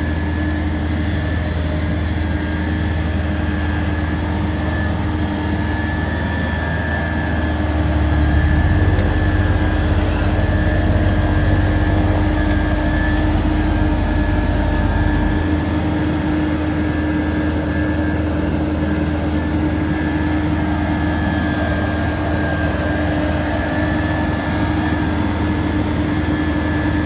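Heavy road-construction machinery engine running steadily with a low rumble and a steady hum. The rumble grows louder about eight seconds in and eases back about seven seconds later.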